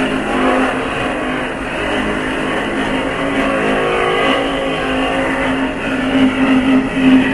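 NYC subway train running, its motors giving a steady pitched whine over the rumble and rattle of the car; the whine grows louder toward the end.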